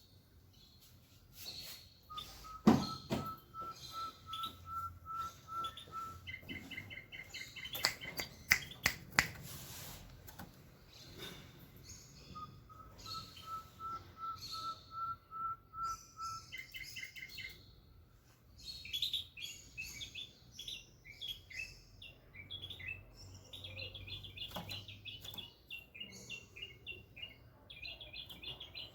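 Bulbul singing: varied chirped, whistled phrases, with two runs of quick, evenly repeated whistled notes that climb slightly in pitch. A few sharp clicks or knocks stand out, once about three seconds in and several times around eight to nine seconds.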